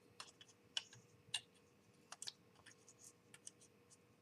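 Faint, irregular light clicks and taps from small model-kit parts and their packaging being handled.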